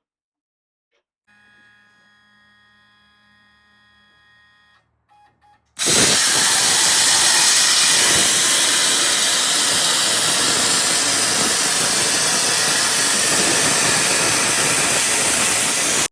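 A faint machine hum, then about six seconds in a loud, steady hiss of air or gas starts suddenly and keeps going.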